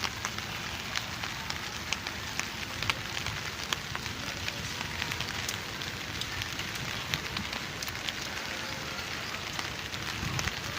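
Rain falling steadily, a constant hiss with many irregular sharp drop ticks as drops strike surfaces close by.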